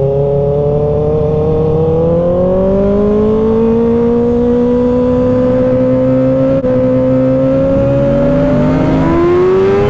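Engines under acceleration: one engine's pitch climbs slowly and steadily for several seconds. Near the end a second engine's tone drops and then rises again.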